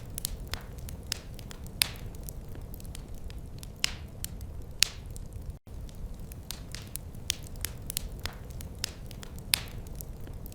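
Wood fire crackling: irregular sharp pops and snaps over a steady low rumble of the burning fire. The sound drops out for a split second about halfway through.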